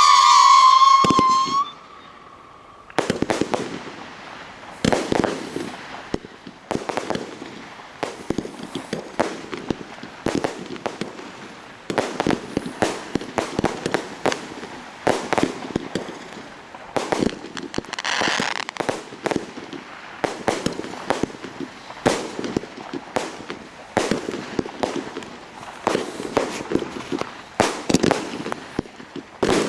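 Fireworks display: a high whistle that stops suddenly near the start, then, after a short lull, a dense irregular barrage of bangs and cracks, several a second, with a hissing crackle now and then.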